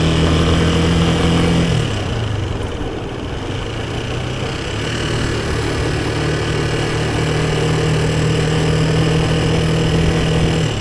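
Motorcycle engine running on the move. Its note drops about two seconds in as it eases off, leaving mostly a rushing noise, then settles back to a steady note for the last few seconds.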